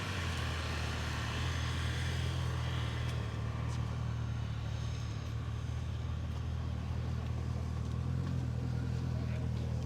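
An engine running steadily at idle: a low, even rumble that holds throughout.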